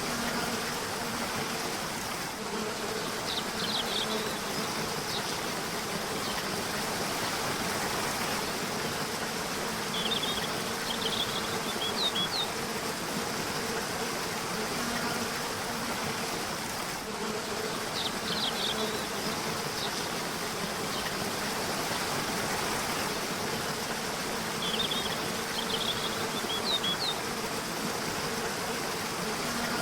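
Steady rush of river water with a low, even hum underneath, and a songbird giving short bursts of quick high chirps four times, about every seven or eight seconds.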